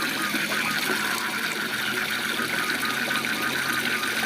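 Waterfall's steady rushing water, with a fast, evenly repeated series of short chirps running over it.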